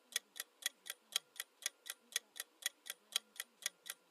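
Countdown-timer clock-ticking sound effect: even, sharp ticks at about four a second, counting down the time to answer.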